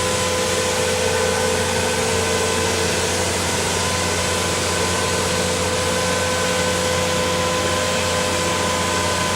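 Truck-mounted concrete pump running steadily: an even engine drone with a constant hum and a wide hiss over it.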